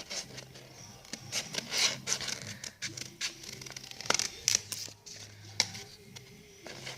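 Scissors cutting a shape out of folded paper: irregular crisp snips with paper rustling between them.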